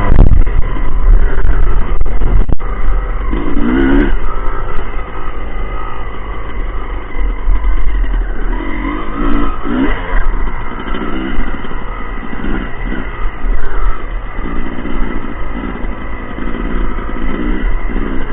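Motocross dirt-bike engines revving up and down as the bikes ride the track, the pitch rising and falling repeatedly over a continuous low rumble.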